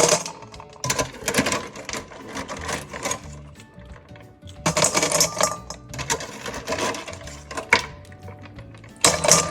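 Boiled conch shells clattering and clinking against each other and a dish as they are handled, in several bursts of a second or two.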